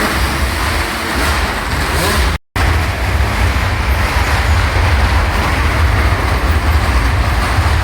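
Several motorcycle engines running hard and continuously as they circle a wall-of-death drum, with a heavy low rumble. The sound cuts out completely for a moment about two and a half seconds in.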